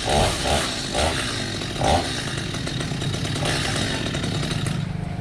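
Chainsaw running at high revs, cutting through the trunk of a fallen tree; near the end the revs drop off.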